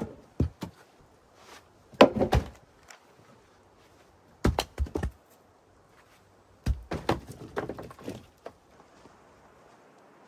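A series of sharp knocks and thunks in several short groups, with quiet between them.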